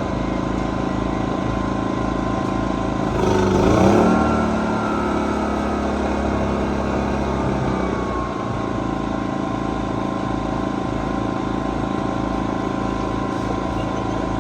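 Generac GP2200i inverter generator's small single-cylinder engine running steadily. Its speed rises briefly about four seconds in, then settles.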